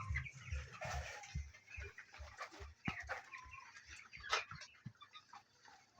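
A flock of young broiler chickens in a poultry house, many short scattered peeps and chirps overlapping.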